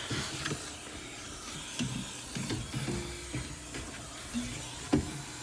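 Vacuum cleaner running with a steady hiss while sucking up dust, with a single knock near the end.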